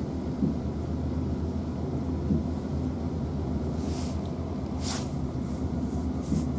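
Cabin running noise of a Class 450 Desiro electric multiple unit at speed: a steady low rumble with a hum underneath. Two brief hissing rustles about four and five seconds in.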